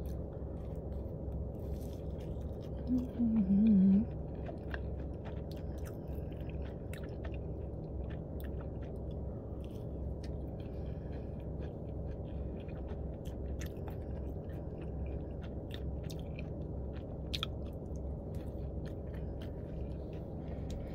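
Close-up mouth sounds of biting into and chewing a fried Southwest egg roll: small crisp crunches and wet clicks scattered all through. A short hummed "mm" comes about three seconds in. A steady low hum runs underneath.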